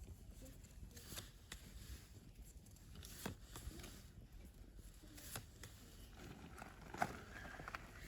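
Wood campfire crackling faintly, with scattered irregular pops and a sharper pop about seven seconds in.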